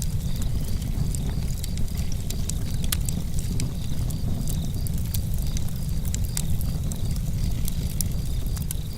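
Campfire crackling: irregular sharp pops and snaps from the burning wood over a steady low rumble of the fire.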